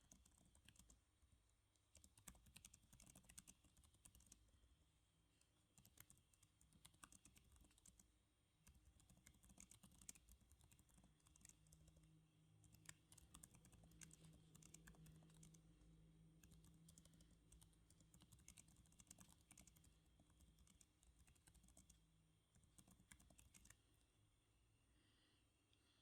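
Computer keyboard typing: quick runs of key clicks with short pauses between them, quiet and close. A faint low hum sits under the keys through the middle stretch.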